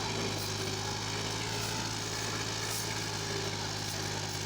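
Diesel engine of heavy farm or construction machinery running steadily at idle, an even low hum that does not change.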